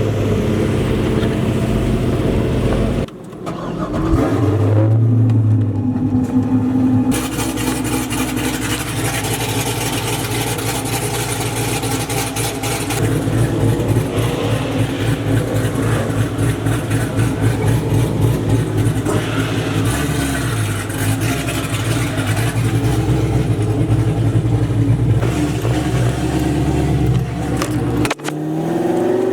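A car engine running at idle with a fast, even pulse, changing abruptly a few times, and revving up near the end.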